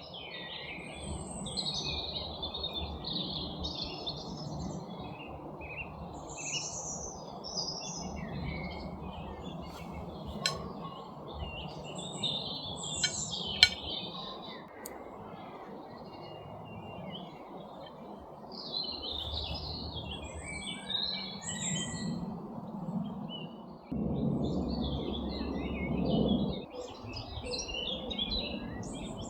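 Songbirds chirping and singing in a forest, many short phrases overlapping, over a steady low rushing background. A few sharp clicks sound near the middle.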